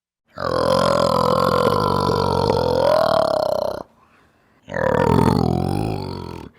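An animal's call: a long, low, rough call lasting about three and a half seconds, then a shorter second call that falls in pitch.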